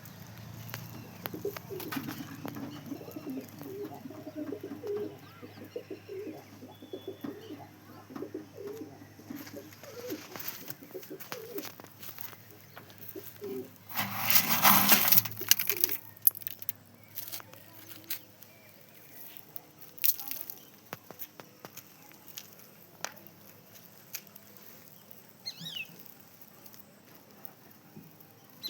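Domestic pigeons cooing in low, repeated calls, with a loud burst of noise lasting about two seconds midway, scattered clicks, and two short falling chirps near the end.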